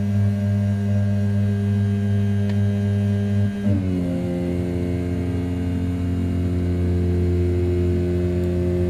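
A desktop CNC mill's 500 W brushless spindle running at about 6000 rpm while an end mill rough-cuts A7075 aluminium: a steady hum with its tones shifting slightly in pitch about three and a half seconds in.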